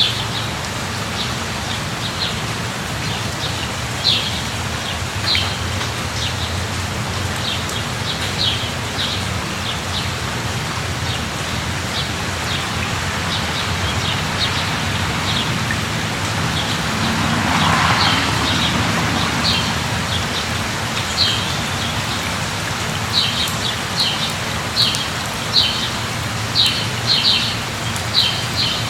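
Steady rain falling, with a low hum underneath and short sharp ticks at irregular intervals that come more often near the end. There is a brief swell about two-thirds of the way through.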